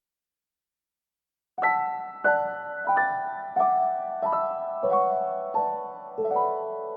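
Soft, slow piano music: single notes and chords struck about once every two-thirds of a second, each ringing out, starting after a second and a half of silence.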